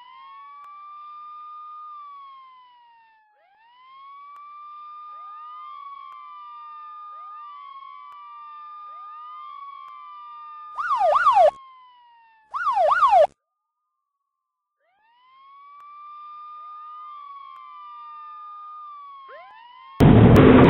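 Police siren wailing in slow rising and falling cycles, broken by two short loud bursts of fast yelping sweeps a little past the middle. Near the end a loud rough noise cuts in.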